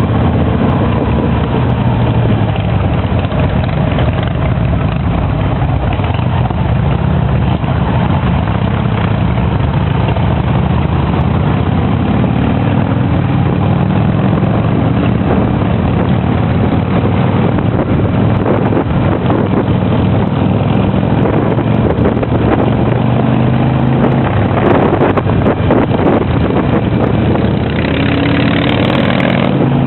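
Harley-Davidson V-twin motorcycle engine running on the road, its pitch rising and falling several times as it speeds up and slows.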